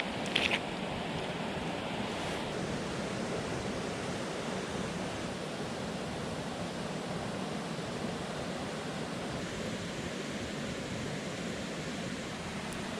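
Steady rushing of a swollen mountain stream, with a brief clatter about half a second in.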